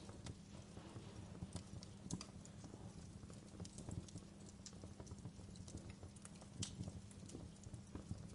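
Wood fire crackling in a fireplace: irregular sharp pops and snaps, a few louder ones, over a low steady rumble of the flames.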